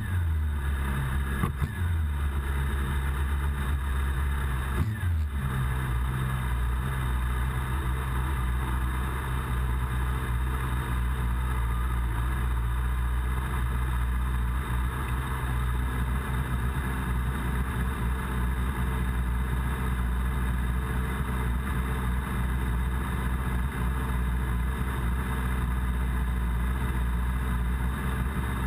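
Yamaha R6 600cc inline-four engine idling steadily at a standstill.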